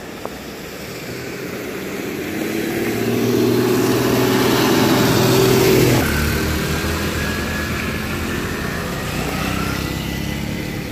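A motor vehicle's engine getting louder as it approaches, then passing close by, its note dropping suddenly about six seconds in and running on more steadily as it moves away.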